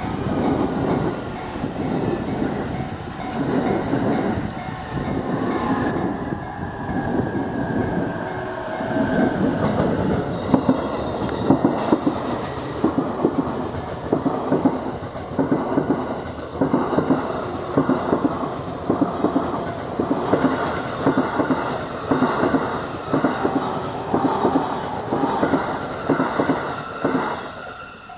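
JR East E531 series electric train passing close by, its wheels clacking over the rail joints in a steady rhythm of loud beats, about one or two a second, all along the train.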